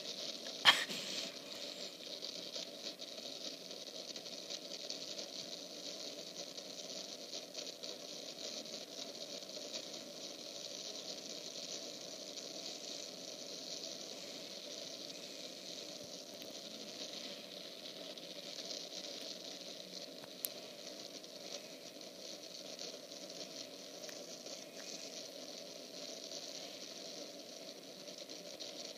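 Strong wind blowing with a steady hiss, and a single sharp click about a second in.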